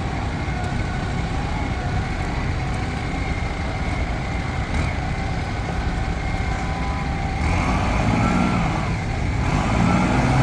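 Large diesel engine running steadily, a constant low rumble.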